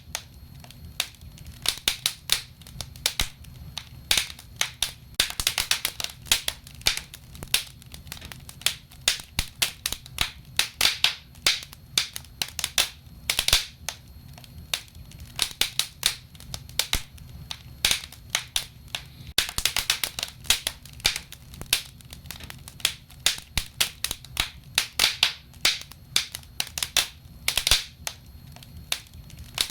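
Wood fire burning in a fireplace, crackling with frequent irregular sharp pops and snaps over a low rumble of flame.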